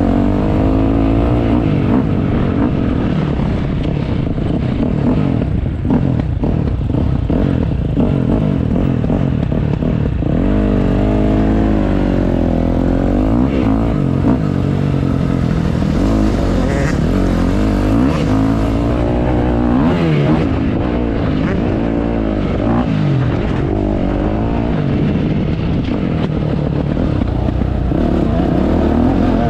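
Motocross dirt bike engine being ridden hard, its pitch rising and falling again and again as the throttle is opened and closed and the gears change. Loud throughout, with occasional clatter and knocks.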